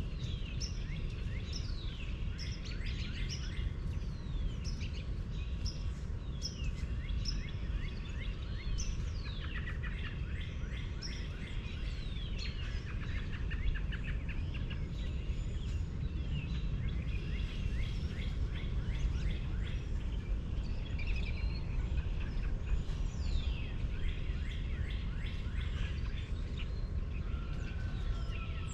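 Many birds singing and chirping, with lots of quick downward-sweeping notes, over a steady low rumble.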